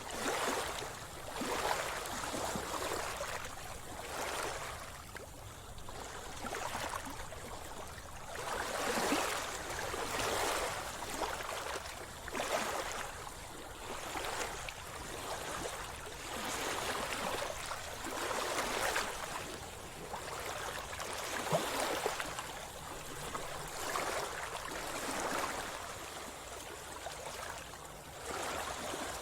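Sea water splashing and sloshing around a swimmer, swelling and fading in uneven surges about every one to two seconds.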